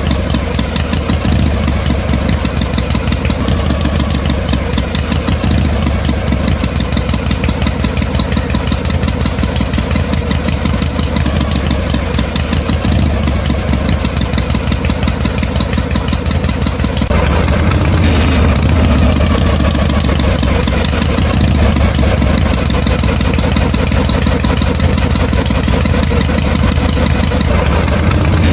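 A small motor running steadily with a fast, even beat. About two-thirds of the way through it becomes louder and brighter and stays that way.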